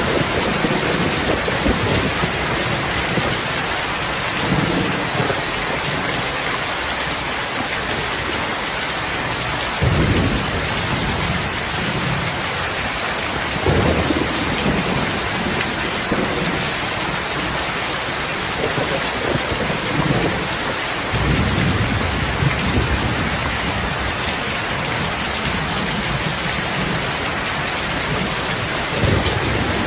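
Heavy, steady rain, with low rolls of thunder swelling up several times: about ten seconds in, around fourteen, near twenty-one, and again near the end.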